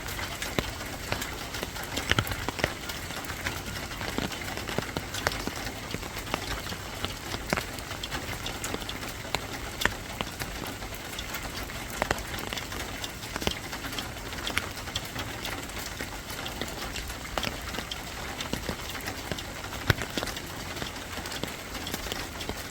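Steady rain falling on a surface, with frequent irregular drop impacts ticking sharply over the hiss; a few drops land louder than the rest.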